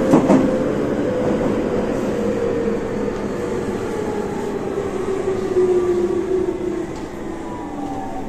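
Tobu 30000 series electric train heard from inside the car, its Hitachi IGBT VVVF inverter and traction motors whining in a slowly falling pitch as the train slows, over steady wheel-and-rail rumble. A couple of sharp rail-joint knocks come right at the start.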